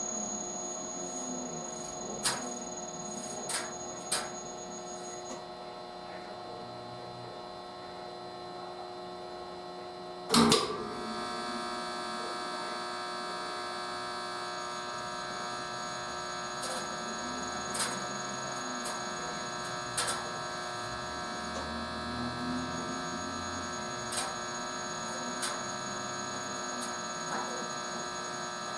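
Drum-type washing machine running with its drum turning: a steady motor hum with a set of constant whining tones, a low rise and fall every couple of seconds, and scattered sharp clicks, with one louder knock about ten seconds in.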